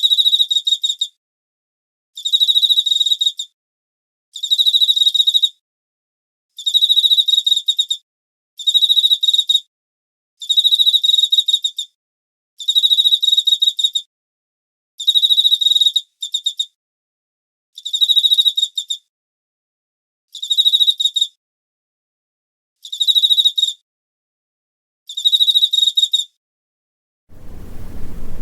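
An insect trilling: a high, buzzy chirp about a second long, repeated regularly about every two seconds. Just before the end a broad rushing noise of wind or water fades in and grows loud.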